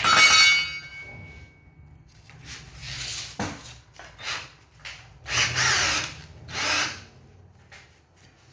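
Carpentry tool work: a sharp metallic strike that rings for about a second and a half, then four short rasping bursts of tool noise against wood.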